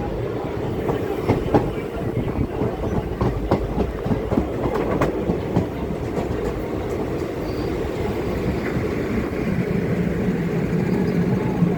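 Indian Railways ICF passenger coach running along the track: a steady rumble with wheels clicking over rail joints, and a low steady hum coming in near the end.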